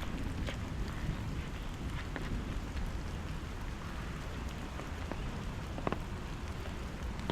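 Steady rain falling, with a few sharper drops tapping close by.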